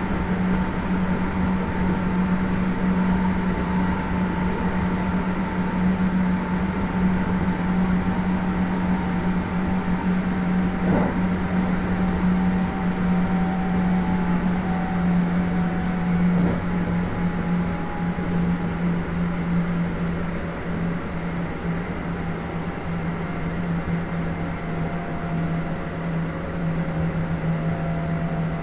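Kintetsu 1420 series VVVF prototype electric train running, heard from inside the passenger car. A steady low hum runs under several higher inverter-motor tones that drift slowly lower in pitch.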